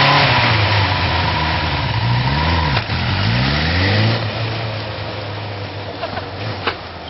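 Motorcycle engine running, its revs dipping and rising unevenly, with a sharp knock about three seconds in. The engine sound dies away about four seconds in, leaving faint clicks.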